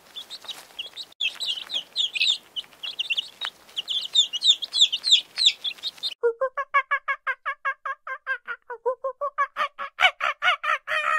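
Young chickens cheeping: many high, overlapping peeps from a flock of chicks. About six seconds in it cuts suddenly to a lower, rapid run of repeated clucking calls, about seven a second.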